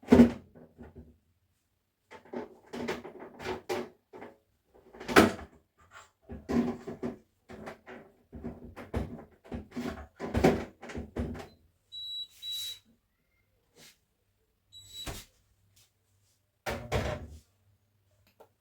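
Irregular knocks, bumps and clatter of household things being handled, like doors, cupboards and items being moved. Two short high beeps come about twelve and fifteen seconds in.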